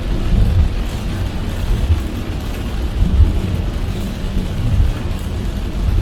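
Car driving in heavy rain: a steady low rumble of road and tyre noise with an even hiss of rain.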